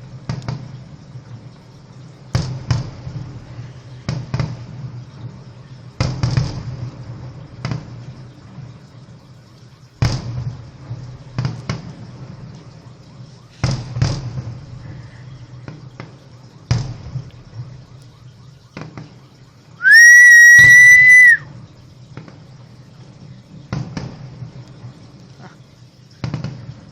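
Salute fireworks bursting: a series of sharp bangs every one to three seconds, each with a low rumble. About twenty seconds in, a loud shrill whistle sounds for about a second and a half.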